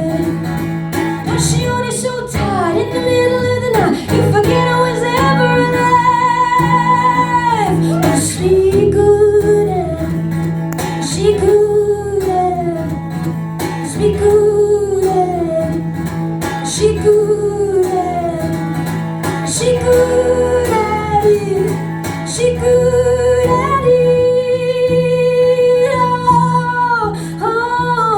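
A woman singing long held and sliding notes over strummed acoustic guitar, as a live song performance.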